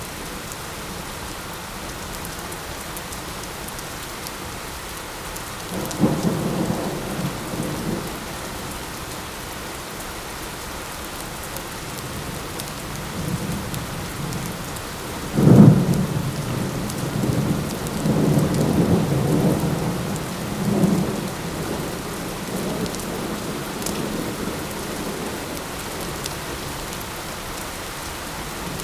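Steady light rain falling, with thunder: a low rumble about six seconds in, then a sharp, loud thunderclap about halfway through that rolls and rumbles on for several seconds before fading back to the rain.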